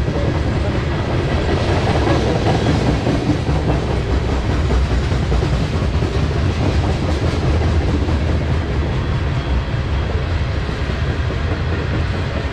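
Freight train of tank cars rolling past, steel wheels running on the rails in a steady rumble.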